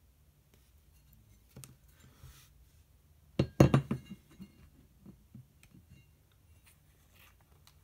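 Steel welding practice plates being handled and set down: a light knock, then a loud cluster of sharp metallic clinks a little past halfway, followed by a few lighter taps.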